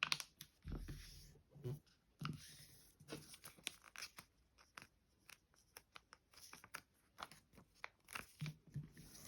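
Faint handling of a square sheet of origami paper being opened out and folded again, with irregular soft crinkles and crackles as the creases are pressed.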